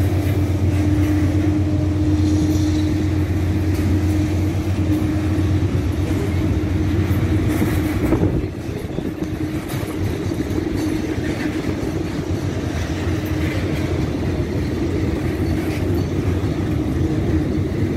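Loaded freight train of tank cars rolling past close by: a steady low rumble of wheels on rail with scattered clicks. A steady hum runs through the first half, and the sound drops slightly about eight and a half seconds in.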